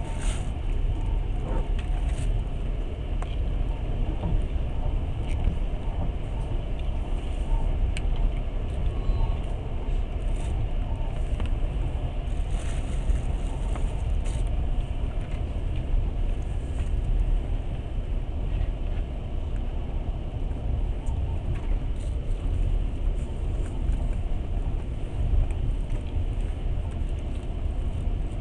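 Passenger train in motion, heard from inside the carriage: a steady low rumble of the running gear on the rails, with a few faint clicks.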